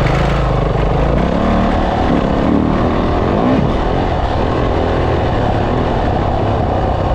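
Dirt bike engine running hard, its pitch rising and falling repeatedly as the rider works the throttle and shifts on a motocross track.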